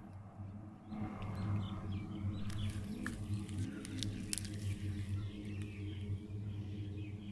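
Faint bird chirps over a steady low hum, with a few sharp clicks around the middle.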